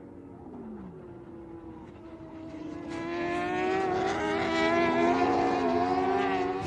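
Racing superbike engines on track: one engine note falls away in the first second, then from about three seconds in several bikes grow louder as they approach, their pitches wavering up and down.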